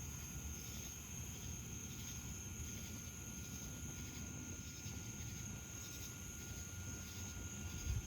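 Evening insect chorus, with cicadas singing: a steady high buzz and a pulsing trill repeating a couple of times a second, over a steady low rumble.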